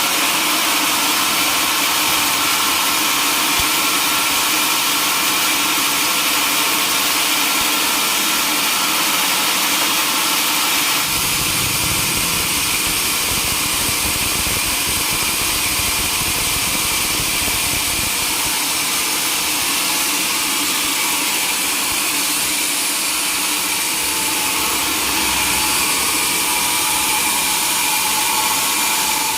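Sawmill running steadily while sawing mahogany wood, a continuous machine sound. About eleven seconds in the sound shifts and a deeper rumble comes in.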